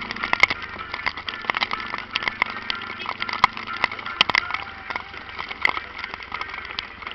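A Falcon 400's engine running with a steady low hum, almost buried under a dense, irregular crackle of sharp ticks.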